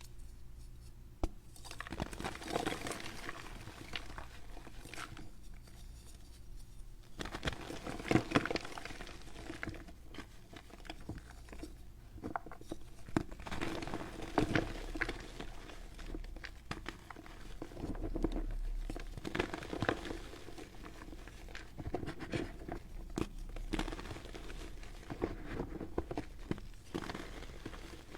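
Baking soda being crushed and crumbled, an irregular series of small crunches and crackles with short pauses between clusters.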